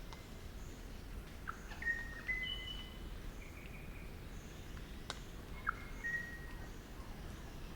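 Crimson rosella giving a few short, level whistled notes, in two small groups about four seconds apart, over a faint steady hiss. A single sharp click comes about five seconds in.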